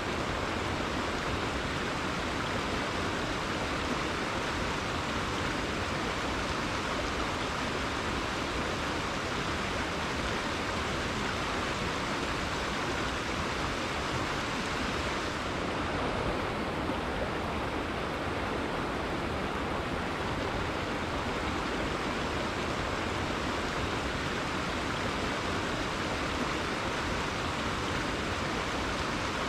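Rainforest river flowing, a steady rush of running water with no breaks; the hiss softens slightly about halfway through.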